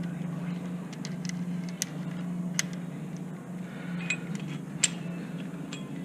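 Metal adapters and parts of a brake caliper piston wind-back tool clinking and clicking as they are handled, with a few short ringing clinks, over a steady low hum.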